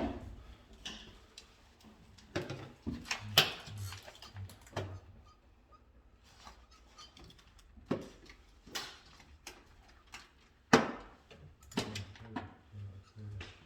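Irregular clicks, taps and knocks of hand work with tools and small hard parts, during electrical wiring work, with two sharper knocks about three and a half and eleven seconds in.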